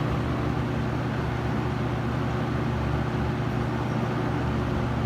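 A 1973–74 Lakewood model P-223 20-inch box fan with a Marco motor running on medium speed: a steady rush of air over a low, even motor hum.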